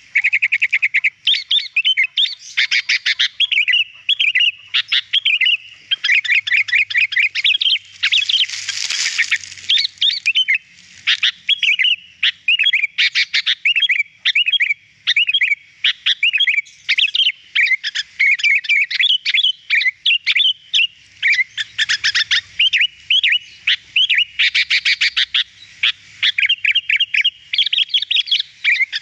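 Sooty-headed bulbul (kutilang) singing without pause: quick, clear chirps and trilled phrases, with a short harsh, noisy burst about nine seconds in.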